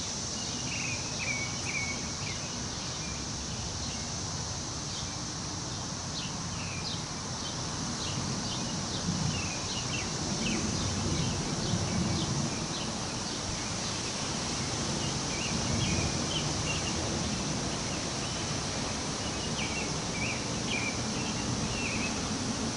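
Wind moving through trees, rising in gusts near the middle, with scattered bird chirps and a steady high insect drone.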